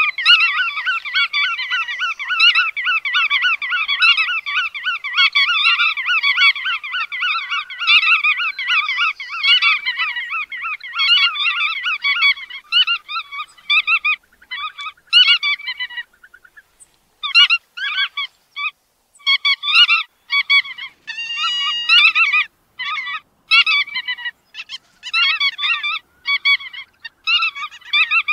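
Bar-tailed godwits calling: a dense, continuous run of rapid repeated call notes for about the first twelve seconds, then shorter separate bursts of calls with brief gaps between them.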